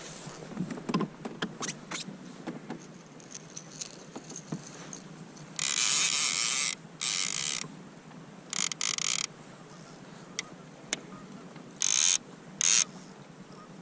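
Fishing reel ratcheting in several short, loud bursts, with scattered clicks and knocks between them.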